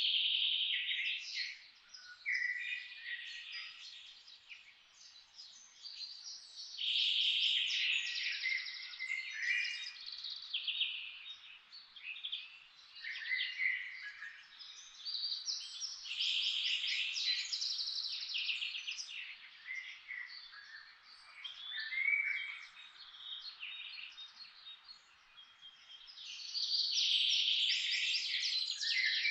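Several songbirds singing and chirping in overlapping, rapidly repeated phrases, swelling into loud spells of song every few seconds over a faint steady hiss.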